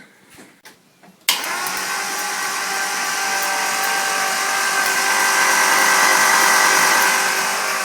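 Starter motor cranking a Nissan L30 straight-six without it firing, to prime the oil system: a steady whirring that cuts in suddenly about a second in and keeps going.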